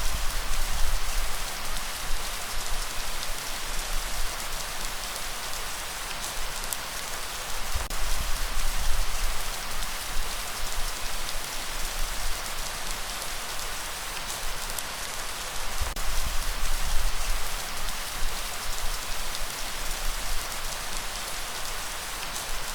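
Steady rain falling, with a low rumble that swells and fades every several seconds.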